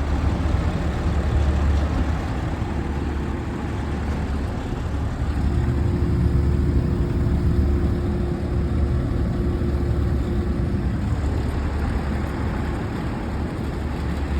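Two 2009 Sanyo inverter ductless air conditioners running with a steady hum and rush of air. A steady higher tone comes in about five seconds in and drops out again about eleven seconds in.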